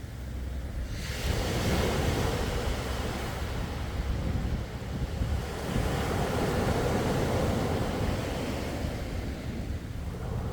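Sea waves washing onto the shore. A wave rushes in about a second in and a second swell builds around six seconds before fading near the end, over a steady low rumble.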